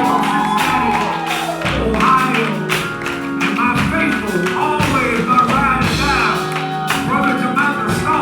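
Live gospel band music with drums and percussion keeping the beat under sustained, wavering melodic lines.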